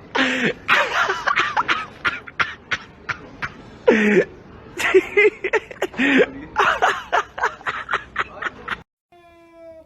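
People snickering and laughing, over many sharp clicks and knocks. The sound cuts off suddenly near the end, and a brief steady electronic-sounding tone follows.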